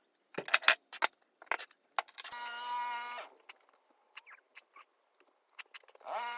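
Scattered sharp clicks and light knocks, with one held horn-like tone lasting about a second, a little over two seconds in; another such tone starts near the end.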